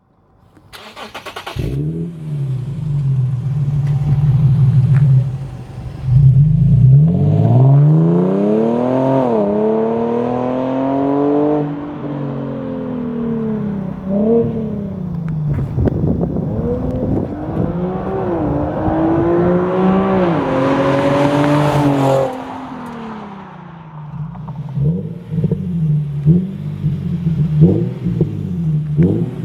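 Infiniti G37 sedan's 3.7-litre V6 heard through a Topspeed axle-back exhaust, pulling under load. The pitch climbs and drops sharply several times as it runs up through the gears, a long pull cuts off about 22 seconds in, and quick short rises and falls of the revs follow near the end.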